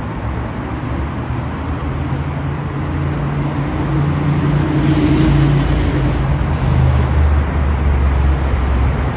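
Red electric train approaching on the multi-track line, its running rumble and low motor hum growing steadily louder, over city traffic noise.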